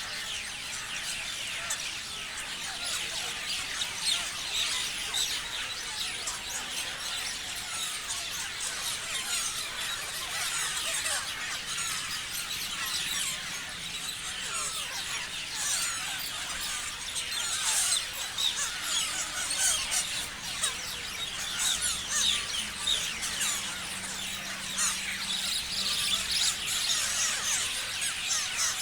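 Many parrots chirping and screeching at once, a dense, unbroken chatter of short high-pitched calls.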